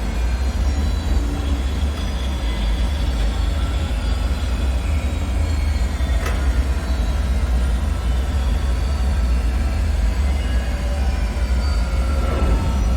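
Dark ambient bunker drone: a steady deep rumble with faint drifting metallic tones above it, a single sharp click about six seconds in, and a falling whine near the end.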